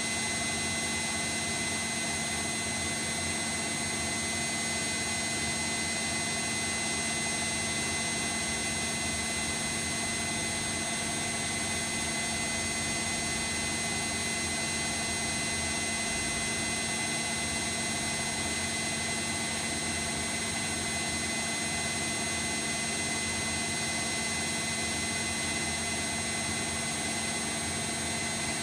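Bosch WAE24162GB washing machine spinning at a steady speed, a constant machine sound with a steady whine.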